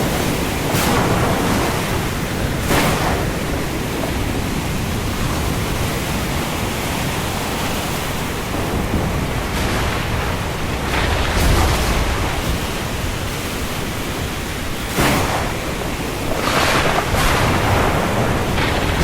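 Rain falling on the open sea: a steady, dense hiss. The surf swells louder briefly a few times, early on and again near the end. There is no thunder.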